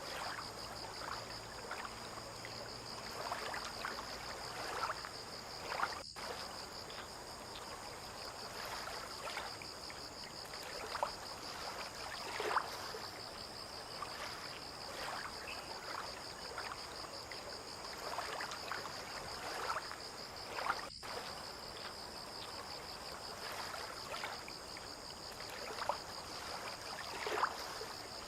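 Water lapping at the waterside in soft, irregular splashes every second or two, over a steady high-pitched insect trill.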